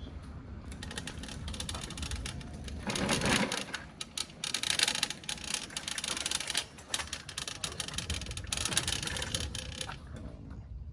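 A dense, rapid rattling and crackling with rustling, louder for about a second three seconds in and again around five and nine seconds in.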